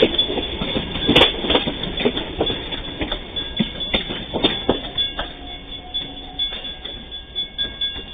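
SuperVia electric commuter train passing, its wheels clacking over the rails. The clacks and rumble fade as the last car moves off.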